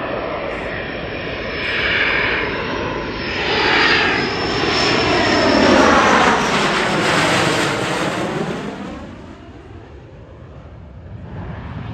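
Fixed-wing aircraft making a low pass. Its engine noise, topped by a steady high whine, swells to a peak about six seconds in with a sweeping, phasing sound as it goes by, then fades over the next few seconds.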